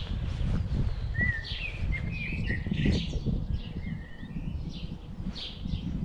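Wild birds calling over the open salt marsh: a few short whistled calls that glide up and down, between about one and four seconds in. Under them runs a steady low rumble of wind on the microphone.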